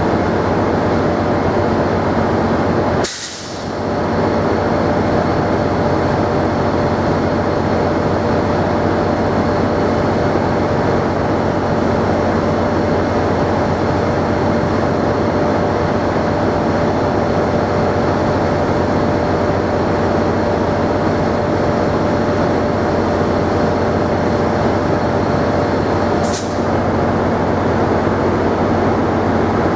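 A train running close by: a loud, steady rumble with a constant tone through it, dipping briefly twice, about three seconds in and near the end.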